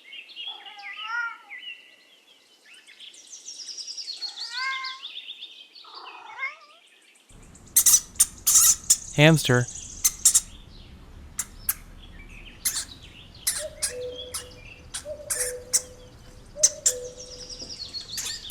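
A cat's short, chirpy meows. Then a hamster's high squeaks mixed with sharp clicks and scratching.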